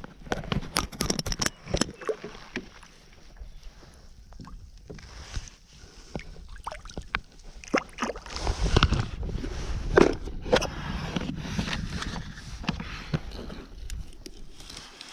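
Water sloshing and splashing against a kayak as a caught bass is handled and let go, with scattered clicks and knocks on the hull and a louder knock about ten seconds in.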